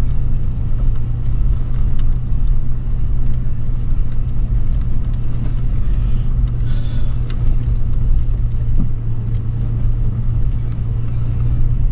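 Steady low drone of a 2013 Toyota 4Runner's V6 engine and drivetrain heard from inside the cabin, running at a constant pace with no rise or fall in revs.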